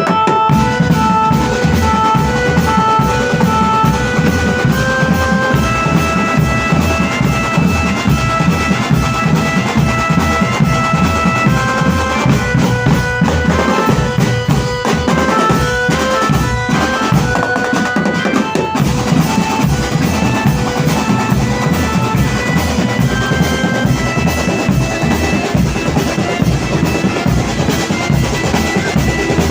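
Loud music accompanying a can-macanan kadduk tiger performance: fast, steady drumming with bass drum and snare under a melody that steps from note to note.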